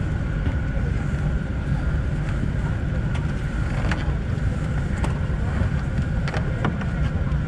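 Steady cabin noise inside a Boeing 747-8: a low rumble with a constant high whine, and a few light clicks.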